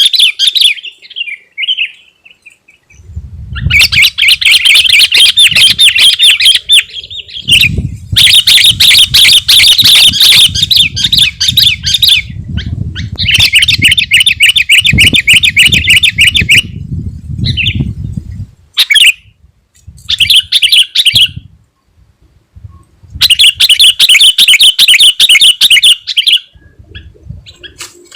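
Sooty-headed bulbul singing loudly in bouts of fast, repeated chattering notes, with short pauses between them. A low rumble runs under several of the bouts.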